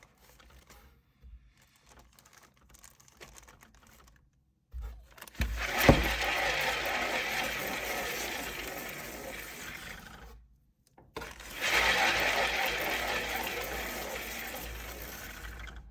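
Plastic cake-decorating turntable spun by hand, rumbling and rattling, with a knock near the start. It is spun twice, each spin starting suddenly and fading as the turntable slows.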